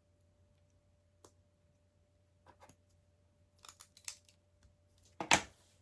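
Plastic LEGO pieces being handled and pressed together: scattered small clicks, a few quick clusters, and a louder sharp click about five seconds in.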